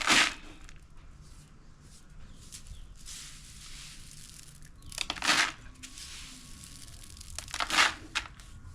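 Crinkling and rustling from a small batch of maize being handled while it is readied for dusting against weevils, with three louder rustles: at the start, about five seconds in and near eight seconds.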